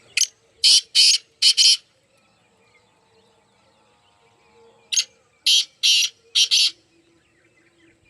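A teetar (partridge) calling in two harsh, scratchy phrases: four quick notes at the start, then five more about five seconds in.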